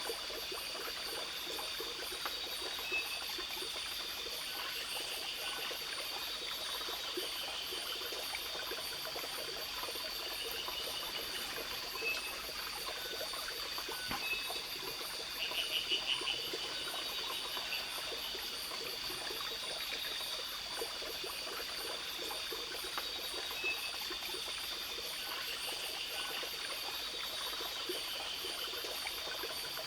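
Forest ambience: a stream trickling under a steady high-pitched insect chorus, with scattered short chirps and a brief, louder pulsed call about halfway through.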